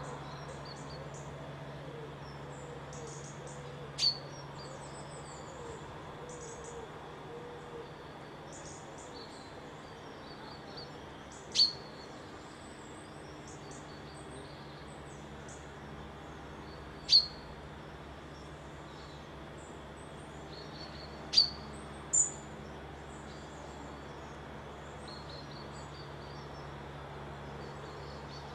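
Songbirds twittering faintly and high, with a loud, sharp, falling call every few seconds, five times in all, two of them close together near the end. A steady low hum runs underneath.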